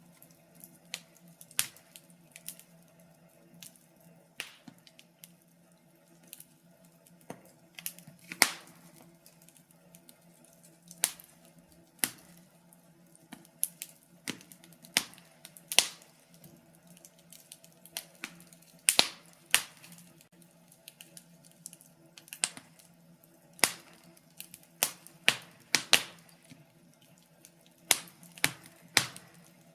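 Wood fire crackling, with irregular sharp pops and snaps, some much louder than others, over a faint steady low hum.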